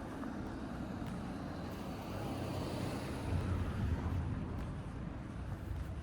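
A car passing along the street: a low rumble and tyre hiss that build to a peak about halfway through and then fade.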